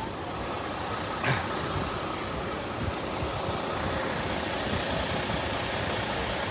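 Water rushing steadily from a sheared-off fire hydrant, a continuous spray noise, with one brief short sound about a second in.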